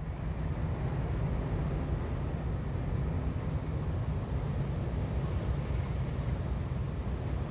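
Diesel freight train running on the track: a steady low rumble.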